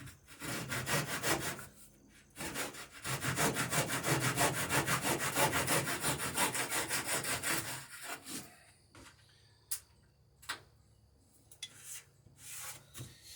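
Handsaw cutting through a wooden plank with quick back-and-forth strokes. A short run of strokes is followed by a longer steady run at about four strokes a second, which stops about two-thirds of the way through. A few sharp knocks follow.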